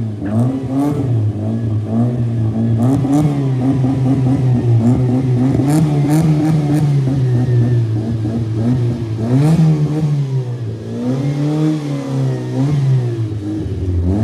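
Modified Chevrolet Beat's three-cylinder engine revved repeatedly through an aftermarket exhaust, the pitch rising and falling with each blip of the throttle, with a few sharp cracks between revs.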